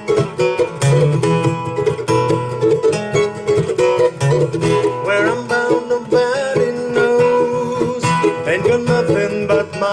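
Live band playing the instrumental intro of a country-style song, led by picked and strummed guitar and other plucked strings.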